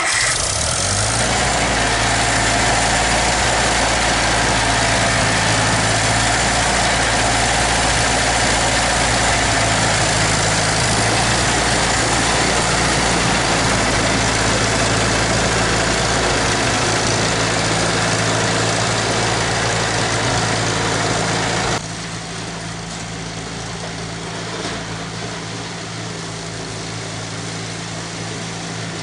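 International 2444 tractor engine running steadily just after starting, with its carburetor freshly cleaned and new ignition points fitted. About 22 seconds in it becomes noticeably quieter and settles.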